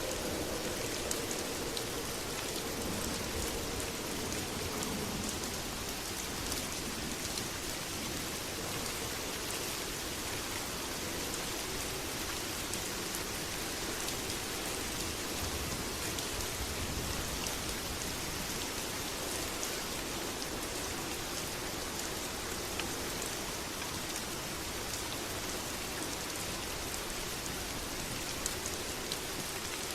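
Steady heavy rain falling on surfaces: a dense, even hiss with scattered drop ticks.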